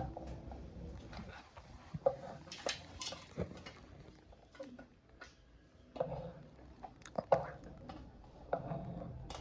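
Irregular knocks and sharp clicks of kitchen things being handled during cooking, with a few short, low voice sounds between them.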